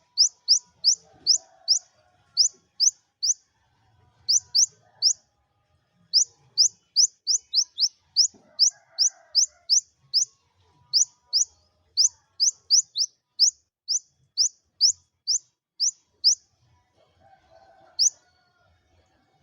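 Kolibri ninja sunbird calling: a long series of short, high, upward-sweeping chirps, about two to three a second, in runs broken by brief pauses, with a longer gap near the end before one last chirp.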